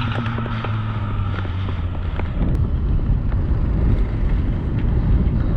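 Wind buffeting the microphone while riding a bike through town, with a motor vehicle's engine hum for the first two seconds; the wind rumble grows louder a little after two seconds in.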